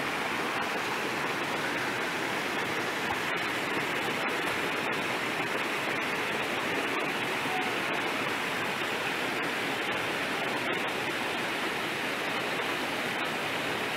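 Steady rush of flowing water, like a stream or small waterfall, holding an even level throughout.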